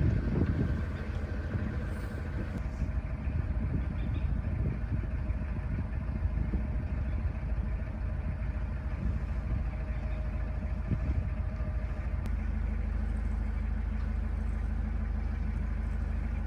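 Narrowboat's diesel engine running steadily while cruising on the canal, a continuous low rumble with a faint steady tone above it that fades out about twelve seconds in.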